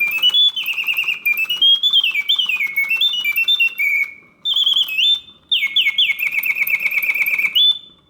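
Bellows-driven bird whistle of a 1972 Reuge double singing bird cage, playing loud mechanical birdsong on its continuous setting: warbling trills and quick rising and falling glides, broken by a few short gaps.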